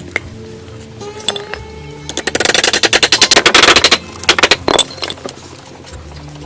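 A rapid burst of sharp knocks, about twenty a second for roughly two seconds, followed by a few shorter knocks, over background music.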